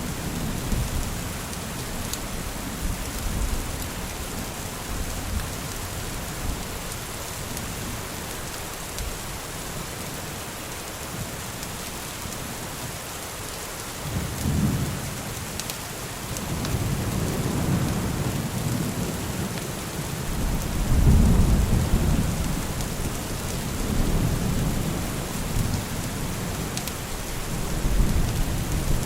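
Steady rain with rolling thunder. Low rumbles come in about halfway through and swell several times, the strongest a little past two-thirds of the way.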